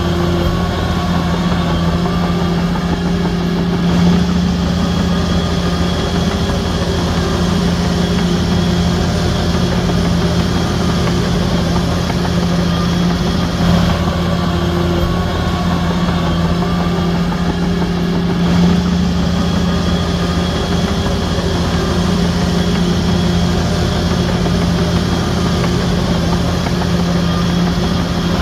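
Shantui DH17C3 bulldozer's diesel engine running steadily at a constant pitch, with a few brief louder moments.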